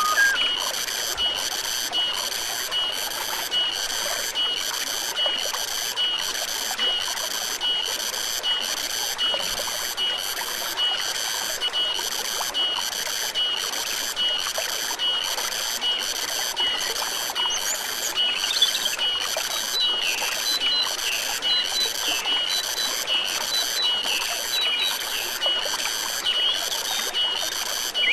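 Insects chirping in a steady, even rhythm, about one and a half high-pitched pulses a second, over the hiss of flowing stream water. Short bird chirps come in about two-thirds of the way through.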